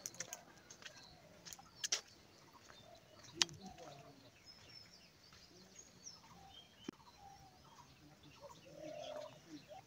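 Birds chirping faintly here and there, with a few sharp clicks, the loudest about three and a half seconds in.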